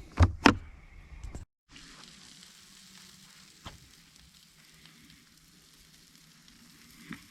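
Sausage and potatoes frying over a camp stove, giving a steady, faint sizzle. A couple of brief knocks come at the very start, and a single light click about three and a half seconds in.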